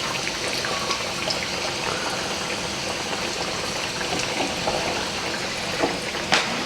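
Breaded chicken nuggets sizzling and crackling steadily in hot frying oil, with a single light click near the end.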